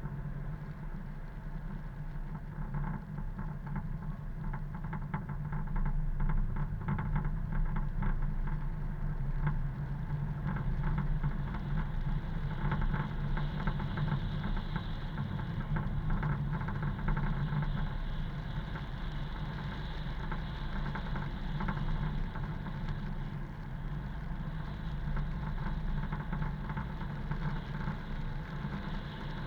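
Car driving along a road: steady engine hum and tyre noise.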